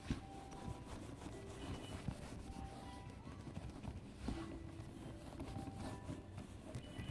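Soft background music of short held notes, with faint rubbing and handling noises from a baby wipe being worked over a leather handbag.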